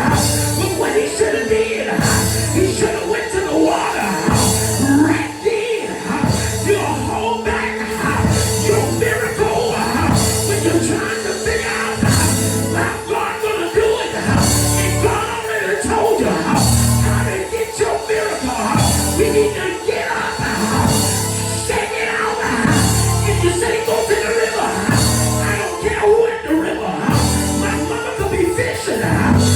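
Loud live band music in a church service, with drums and bass keeping a steady beat about once a second, and some singing.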